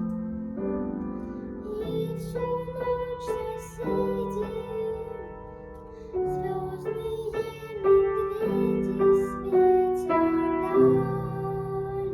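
Piano playing a slow melody of held notes over lower chords, a new note about every second.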